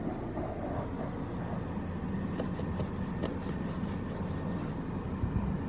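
Ford Transit van's cabin heater blower running flat out, a steady rush of air over the low rumble of the van's engine. It is running at full blast against ice forming on the inside of the windows in deep cold.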